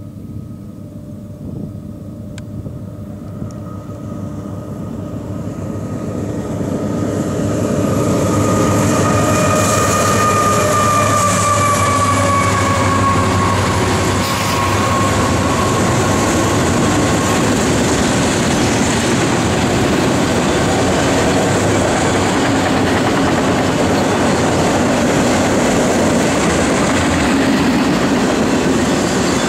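Union Pacific freight train's two lead diesel locomotives, a GE AC4400CW and an EMD SD70M, approaching and passing, growing steadily louder over the first eight seconds. As they go by, a high tone slides down in pitch. It is followed by the steady, loud rumble and clatter of autorack cars rolling over the rails.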